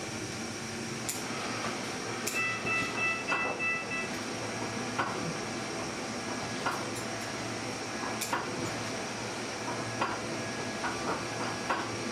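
Steady hiss of workshop background noise, with scattered light taps and knocks from handling the candy, and a brief high-pitched tone about two seconds in.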